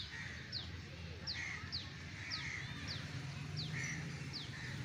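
Birds calling in a park: one bird repeats short, high whistles that fall in pitch, about two a second, over harsher calls from other birds.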